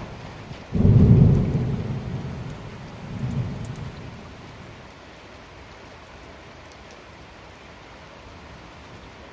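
A thunderclap about a second in, rumbling low and fading over the next few seconds with a second swell, over steady rain falling. After the thunder dies away, only the even hiss of the rain remains.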